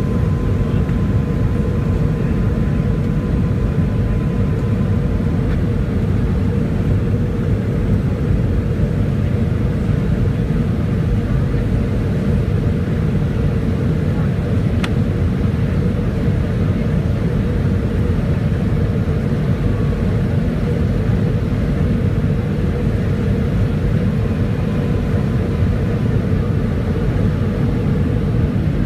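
Steady engine and airflow roar inside the passenger cabin of a Boeing 757-200 in flight, with a constant hum over the rumble. A single sharp click comes about halfway through.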